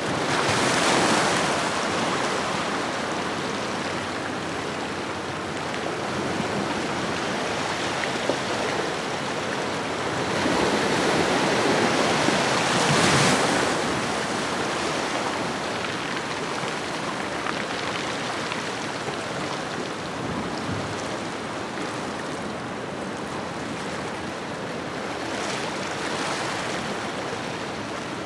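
Ocean waves washing onto a shoreline: a steady wash of surf that swells three times, once about a second in, loudest between roughly 11 and 14 seconds, and again faintly near the end.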